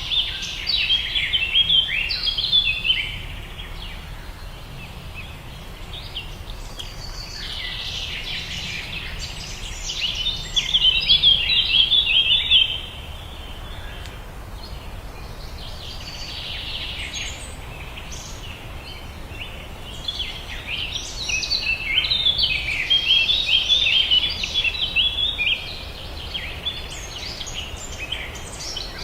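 Birds chirping in repeated bouts of rapid, high calls, louder and busier at times, over a steady low background rumble.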